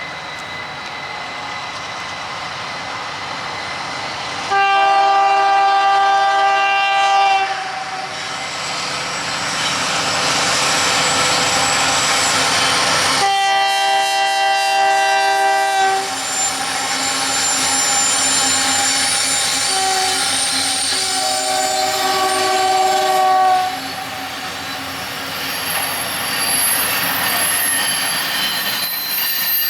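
Freight locomotive's multi-chime air horn sounding the grade-crossing pattern: two long blasts, a short one, then a long one. Under it runs the steady noise of the approaching train and rain.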